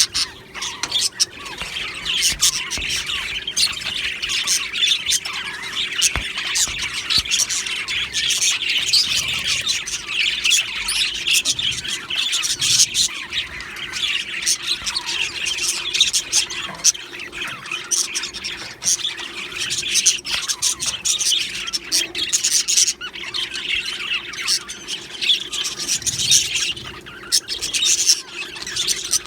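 A flock of budgerigars chattering, squawking and chirping together, many birds at once in a continuous, busy din.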